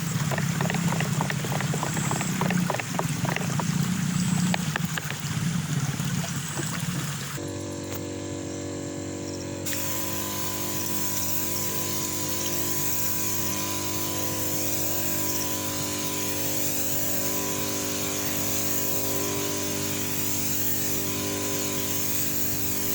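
Splashing, running water with small crackles. After a sudden cut about seven seconds in, a steady machine hum with an even hiss, like a small motorised pump or sprayer running.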